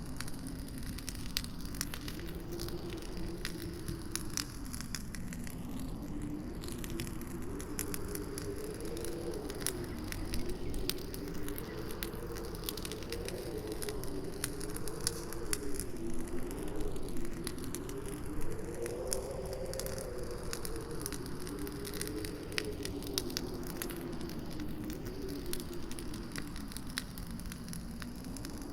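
Campfire crackling with frequent small pops and snaps, over a howling wind whose pitch slowly rises and falls.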